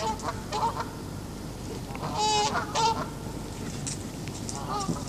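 Geese honking in a display of aggression: several short, harsh honks, the loudest pair a little over two seconds in.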